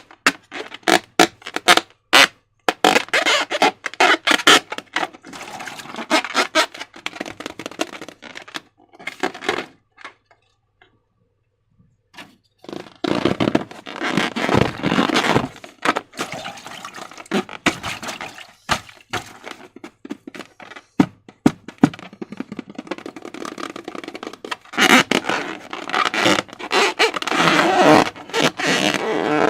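Slime being handled and mixed, with sticky squishing, rapid clicky crackles and scraping, in loud, irregular bursts with a short pause about ten seconds in.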